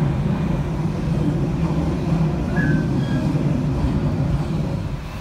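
Passenger train running at speed: the steady low rumble of the carriages' wheels on the track.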